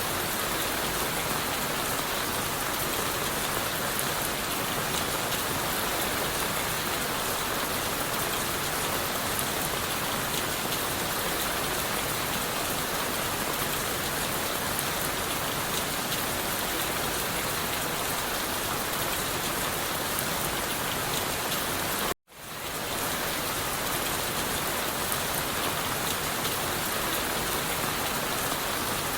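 Steady rain pattering on leaves and wood. About two-thirds of the way through, the sound cuts out suddenly for an instant and then swells back in, like an edit or loop point.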